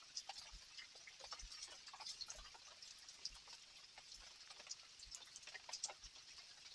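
Quiet rain: a dense, irregular scatter of drops dripping and ticking onto surfaces, with the odd low thud of a heavier drop.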